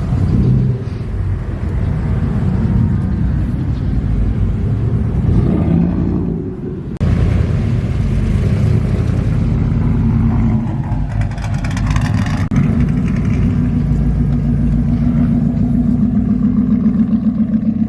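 Car engine running and revving, loud, with an abrupt cut about seven seconds in.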